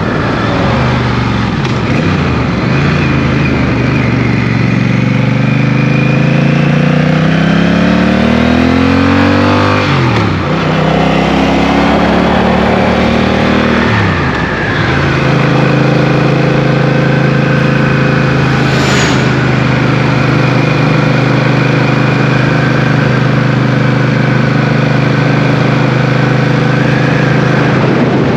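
Motorcycle engine accelerating through the gears: its pitch climbs, drops sharply at a gear change about ten seconds in, climbs again and drops at a second change about fourteen seconds in, then holds steady at cruising speed.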